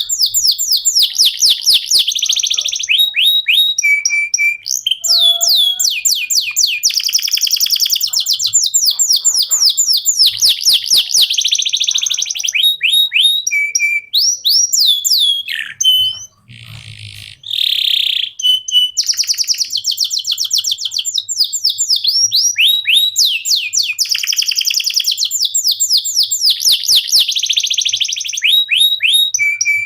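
Canary singing a long, continuous song of fast trills and rapid runs of repeated down-swept notes, with one short break about halfway through.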